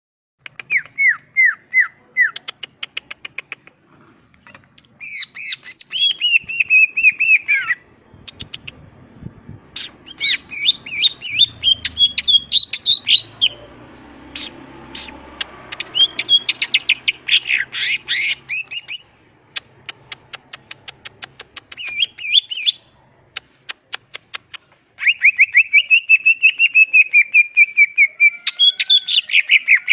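Greater green leafbird (cucak ijo) singing: loud bursts of rapid clicking notes and fast warbled, chattering phrases, separated by short pauses. A long buzzy chattering phrase comes near the end.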